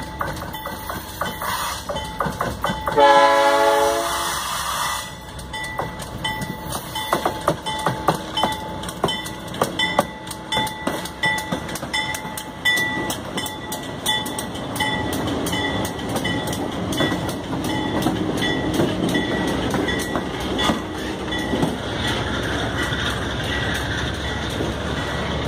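Empty ore train passing, led by diesel-electric locomotives: one loud horn blast about three seconds in, lasting about two seconds, then a fast run of clicks from wheels over the rail joints. A broad rumble from the locomotives and wagons swells in the second half.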